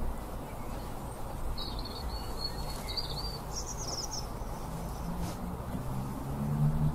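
A small bird chirping a few short high phrases over steady outdoor background noise, with a low hum growing louder near the end.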